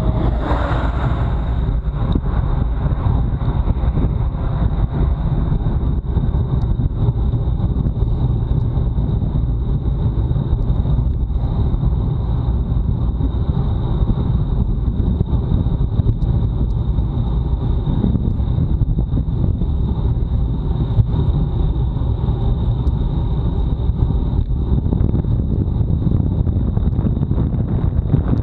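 Wind buffeting an action camera's microphone on a bicycle ridden hard in a time trial, a loud steady low rumble mixed with tyre noise on the road. A brief hiss sounds about a second in, and a thin steady high tone runs under it.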